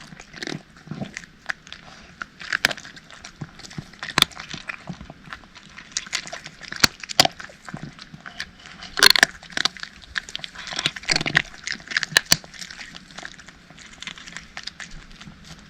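Cats chewing dry kibble: quick, irregular crisp crunches and clicks.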